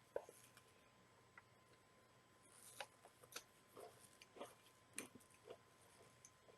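Faint chewing of crunchy cereal in almond milk: a scatter of soft, irregular crunches and clicks, most of them in the middle few seconds.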